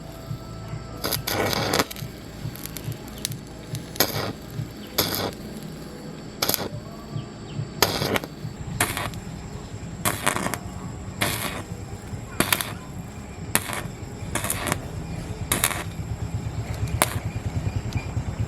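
Sharp knocks on metal, roughly one a second, over a low steady mechanical rumble that grows stronger near the end.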